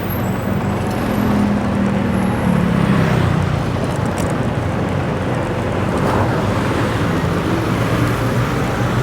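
Street traffic heard from a moving motorbike: a steady mix of engine hum and road noise, with a vehicle's engine note rising and then falling away in the first few seconds.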